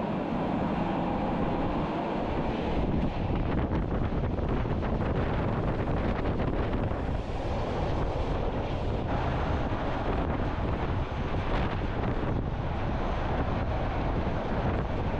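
Wind buffeting the microphone over the steady rumble of a train running along the Bernina line, heard from an open observation carriage.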